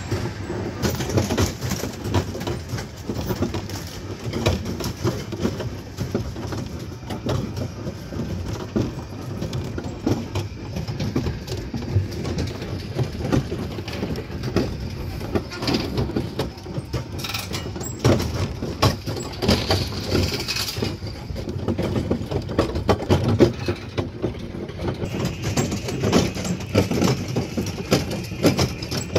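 Small train running along its track, heard from aboard: a steady rumble with constant rattling and clacking of wheels and cars.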